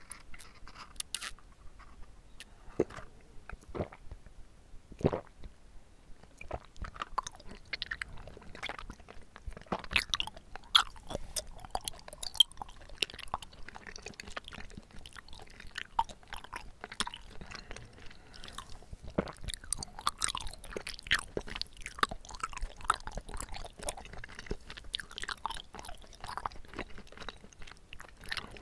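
Someone chewing bubble tea tapioca pearls up close to the microphone: a steady stream of many irregular mouth clicks and smacks.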